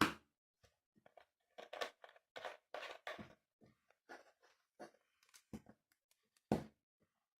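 Tightly inflated balloon being handled, with irregular short rubbery rubs and scrapes and one sharp knock about six and a half seconds in.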